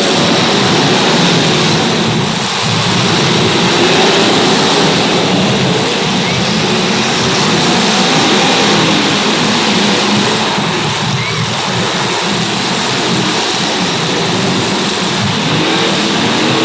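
Several small racing-car engines running and revving together, a steady, loud mix of engine noise with pitches shifting up and down as the cars race around the track.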